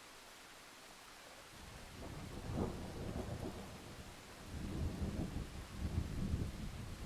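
Rain with thunder: after a faint steady hiss, a low rumble of thunder rolls in about a second and a half in, cracks sharply soon after, and rumbles on in a second, louder spell in the second half.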